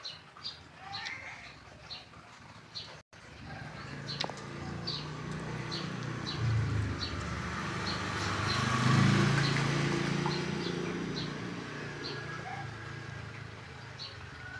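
A motor vehicle passes, its sound swelling to a peak a little past halfway and then fading. Short high ticks repeat about once a second throughout.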